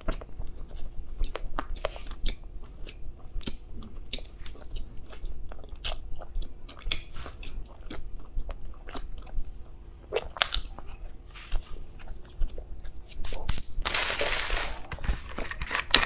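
Close-miked chewing of soft bread: a steady run of short wet mouth clicks and smacks. About fourteen seconds in, a brief louder crinkling burst as a plastic drink bottle is picked up.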